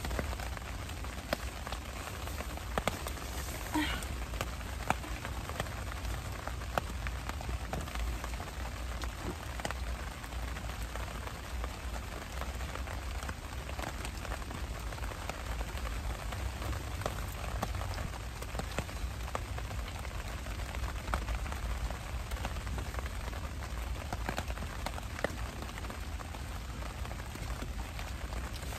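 Rain falling on a Naturehike VIK1 tent, heard from inside the tent: a steady hiss with many scattered ticks of single drops.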